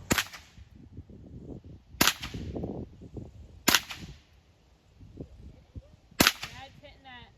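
Four single shots from a Ruger 10/22 .22 LR semi-automatic rifle, each a sharp crack, spaced about two seconds apart.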